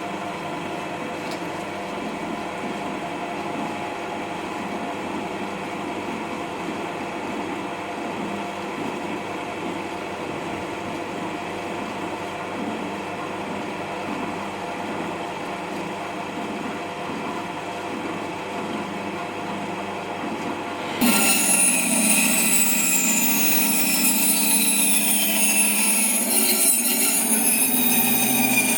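A workshop power tool running steadily with a faint regular pulsing; about three-quarters of the way through it changes abruptly to a louder, higher machine sound with a whine that falls in pitch.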